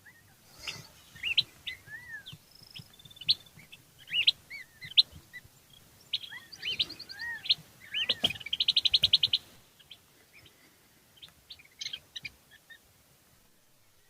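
Wild birds chirping and calling, a string of short whistled notes, some rising and some arched. About eight seconds in comes a fast, loud trill of roughly a dozen notes a second lasting just over a second, and after that only a few scattered calls.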